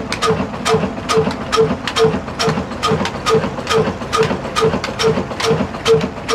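Old black Ruston Hornsby-type stationary diesel engine running slowly and evenly, thumping at a little over two beats a second with a sharp click on each beat.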